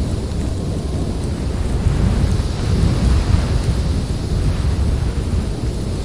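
Blizzard wind blowing steadily in a deep rumble, swelling a little about two seconds in.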